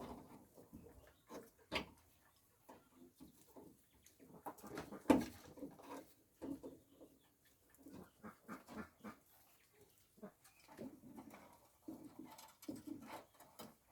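Faint animal sounds, short low calls, among scattered clicks and knocks, with one louder knock about five seconds in.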